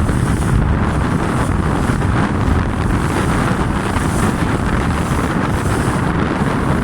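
Strong wind buffeting the microphone, with water rushing past the hull of an RS Tera Pro sailing dinghy running fast downwind; a steady, loud rumble and hiss.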